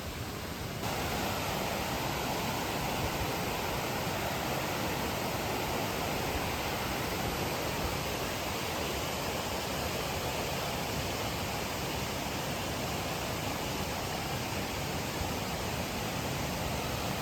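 A fast-flowing mountain stream rushing, a steady wash of water noise. It gets louder about a second in and then holds even.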